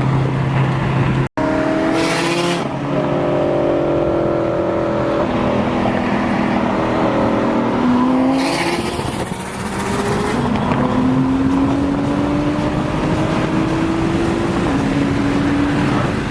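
Car engine accelerating hard through the gears: its pitch climbs steadily and drops at each shift, with a long pull and a shift near the end. Two short bursts of hiss break in between pulls.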